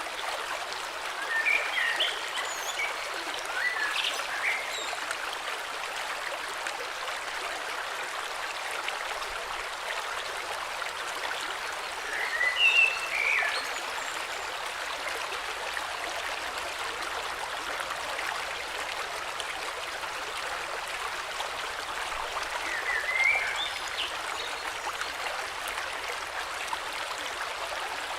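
Steady rush of a flowing river, with songbirds chirping in short bursts three times over it, about a second in, about twelve seconds in and near twenty-three seconds in.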